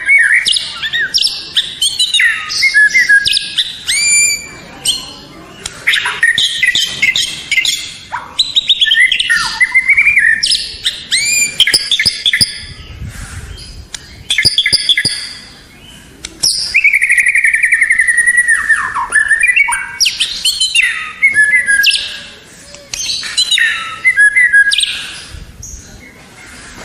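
White-rumped shama (murai batu) singing a loud, varied song of clear whistles, rapid trills and sweeping slurs, delivered in phrases broken by short pauses.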